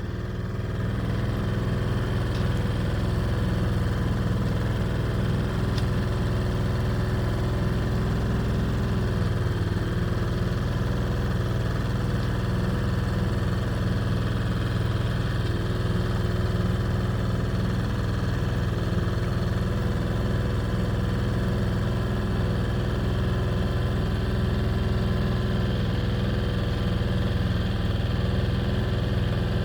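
An engine running steadily at an even speed throughout, with a deep hum and no change in pitch.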